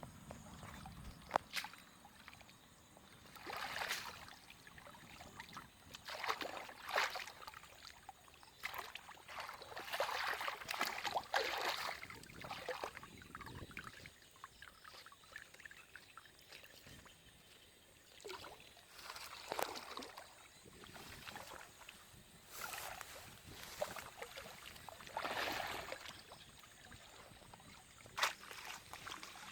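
Shallow water splashing and sloshing in short irregular bursts every few seconds, with a few sharp clicks between them.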